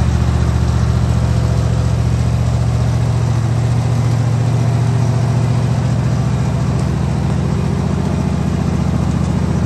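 Ride-on tractor's engine running steadily at a low, even note, easing slightly a few seconds in.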